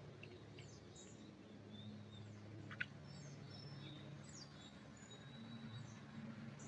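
Faint, scattered short bird chirps over a low, steady background hum, with one brief sharp click a little under three seconds in.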